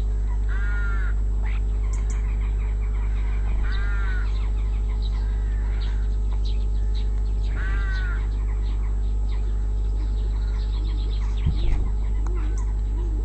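A crow cawing three times, a few seconds apart, over a steady low hum, with faint chirps from smaller birds and a short thump near the end.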